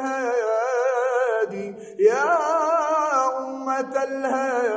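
A man's voice singing a religious Arabic praise poem, drawing out a phrase in long melismatic held notes with a wavering vibrato. There is a short break about a second and a half in, then a new note slides up and is held. A low steady tone sounds underneath.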